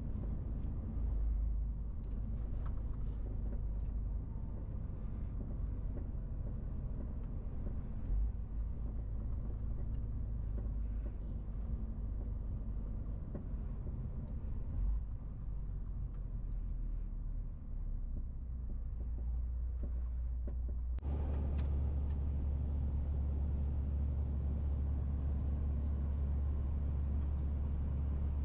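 MAN TGX 18.470 lorry under way: a steady low engine and road rumble. About three-quarters of the way through it abruptly steps up, becoming louder and fuller, and holds there.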